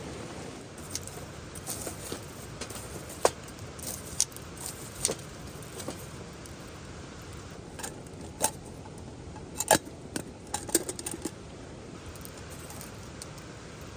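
Steady rain, with a scattering of sharp clicks and clinks bunched in two clusters, the later one near the end the loudest.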